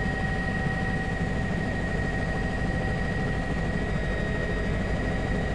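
Steady drone of a small aircraft's engine heard from inside the cabin during flight, with a faint steady high whine.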